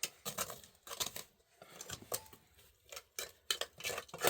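Irregular clinks and clicks of small hard objects being handled, like dishes and utensils knocking together.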